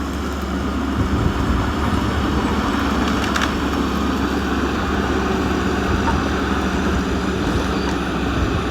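Steady engine noise with a constant low hum, and a brief sharp click about three and a half seconds in.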